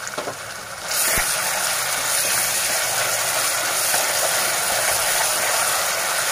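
Onion, curry leaves and ginger-garlic-green-chilli paste sizzling in hot oil in a pressure cooker, stirred with a metal spoon. The sizzle grows louder about a second in as the stirring starts, then holds steady.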